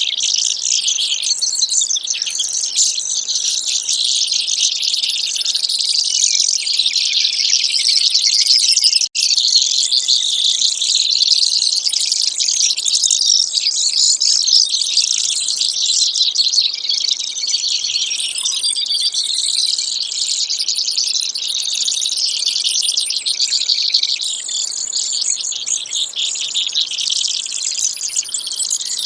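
Brewer's sparrow singing: an unbroken run of fast, high-pitched trills and chips, dropping out for an instant about nine seconds in.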